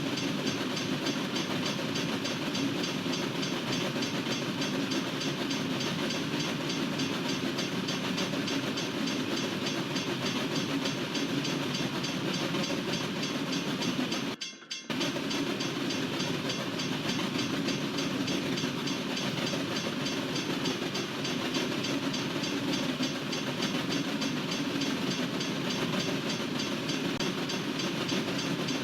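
Freight train cars rolling steadily past a crossing, with continuous wheel-on-rail noise. The sound cuts out for a moment about halfway through.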